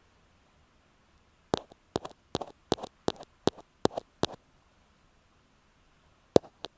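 Ear pick tapping on an earphone microphone: a quick run of sharp taps, a few a second, then after a short pause two more taps close together near the end.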